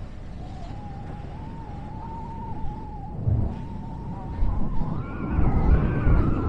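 Freight train rolling through a junction with its steel wheels squealing on the rail: one wavering high squeal that climbs higher about five seconds in, over the low rumble of the train, with a few dull thumps.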